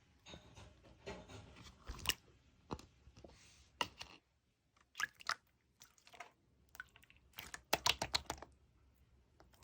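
Yellow clear slime with round toppings being pressed and worked by hand, giving irregular sticky clicks and crunchy pops. The clicks come in small clusters, the densest a quick run of them about eight seconds in.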